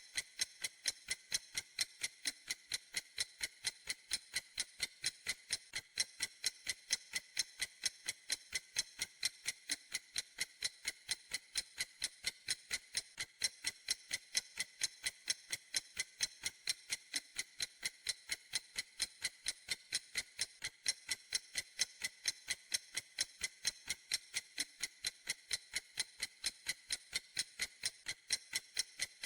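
A clock ticking steadily, about three sharp, high clicky ticks a second in an even rhythm.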